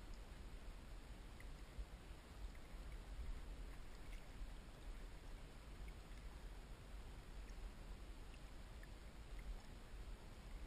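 Faint low rumble with soft water sloshing and a few tiny drips as a fish is held and moved about in lake water beside a boat.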